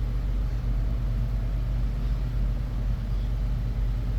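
Steady low background hum from running machinery, even and unchanging, with no distinct knocks or clicks.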